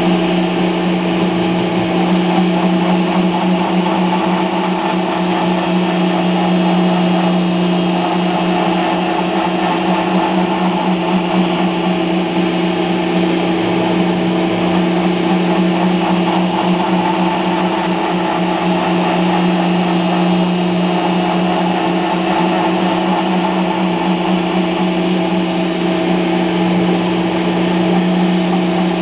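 Router spindle on a homemade CNC machine running steadily with a constant high whine while roughing out foam.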